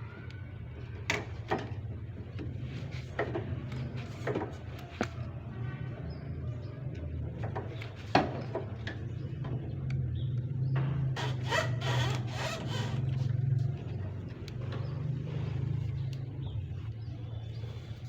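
Sharp metallic clicks and knocks of hand tools working a fuel pipe loose from a vehicle's fuel tank, coming a few at a time with a busier run of clatter past the middle, over a steady low hum.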